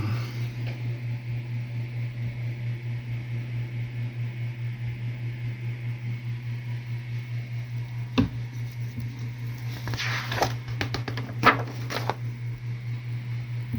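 A steady low hum that pulses evenly throughout. About eight seconds in comes a single knock, then a couple of seconds of paper rustling and clicks as the calendar's pages are handled.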